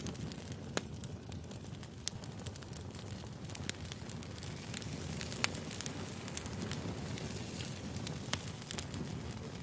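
Wood fire burning: a steady low rumble with irregular sharp crackles and pops from the logs.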